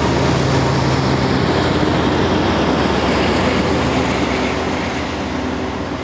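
BNSF diesel-hauled freight train passing close by: the locomotive's engine drone is strong for the first second or so, then the cars roll past with steady wheel-on-rail rumble that slowly grows quieter near the end.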